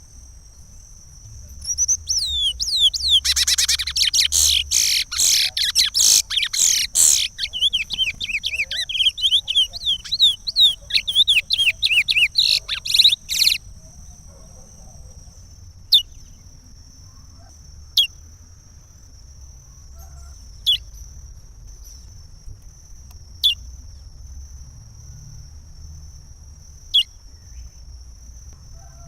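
Curió (chestnut-bellied seed-finch) singing its Pará regional song: a fast, loud run of high notes for about twelve seconds, then stopping and giving single short falling call notes every two to three seconds.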